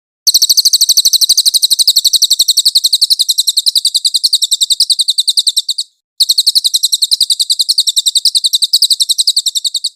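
A cililin bird singing a rapid, very high-pitched trill of evenly repeated notes, about ten a second. It runs for over five seconds, breaks off briefly, then starts again for nearly four seconds more.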